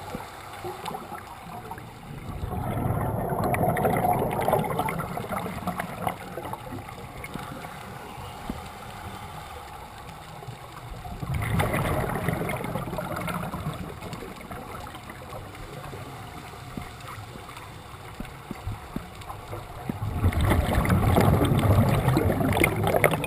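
Scuba diver's exhaled bubbles rushing and gurgling out of the regulator three times, each breath-out lasting about three seconds and coming roughly every nine seconds, with a steady underwater hiss between them.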